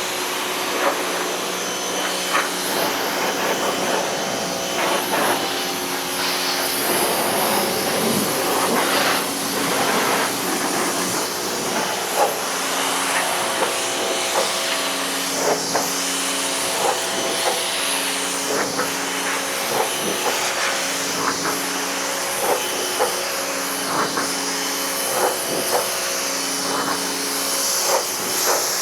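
Pressure washer spraying water over a truck's bodywork: a steady hiss of the jet with scattered spatters, and the machine's hum cutting in and out repeatedly in the second half.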